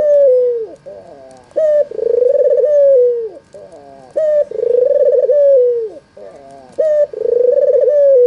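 White (albino, red-eyed) Barbary dove, known as puter, cooing over and over. Each call is a short note followed by a long rolling coo that falls away at the end, and the calls repeat about every two and a half seconds, three full calls and the tail of another.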